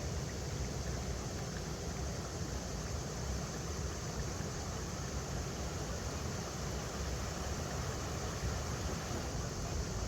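River water rushing steadily over rocks: an even, continuous noise with much of its level in a low rumble.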